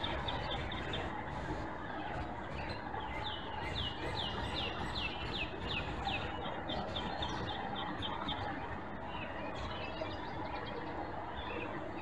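A songbird singing: a run of about ten quick, repeated high notes that each slide downward, a few seconds in, followed by a faster series of short notes, over a steady background hiss.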